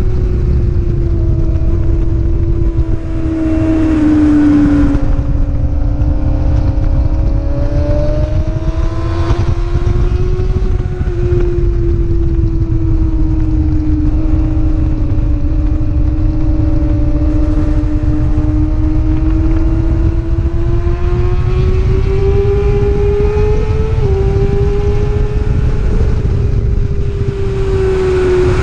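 Racing motorcycle engine held at high revs, its pitch sliding up and down as the rider works the throttle through the gears and corners, with a sudden small step in pitch about three-quarters of the way through. A steady low rush of wind noise lies under it.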